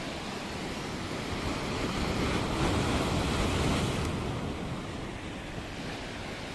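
Sea waves breaking on the shore, one wave swelling to its loudest about three seconds in and then washing back, with wind buffeting the microphone.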